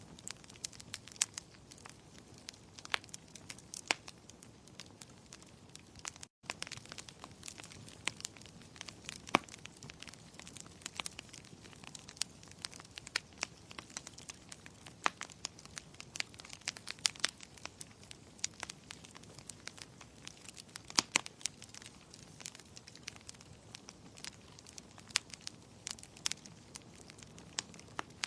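Wood fire crackling: irregular sharp pops and snaps of burning firewood over a soft, steady hiss. There is a momentary gap about six seconds in.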